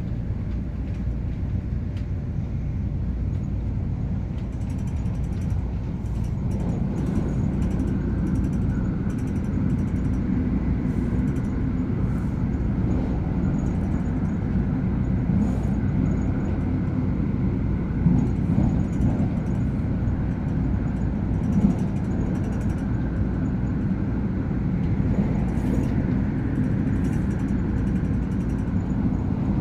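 Cabin noise inside a CAF-built MTR Airport Express electric train while it runs: a steady low rumble of the running train that grows louder about seven seconds in, with two brief knocks a few seconds apart near the middle.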